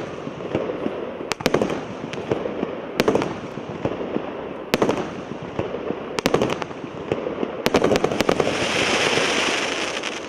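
Р7048 "С Рождеством!" fireworks cake firing: sharp bangs in clusters about every one and a half seconds over continuous crackling. Near the end a hissing crackle swells up and then fades.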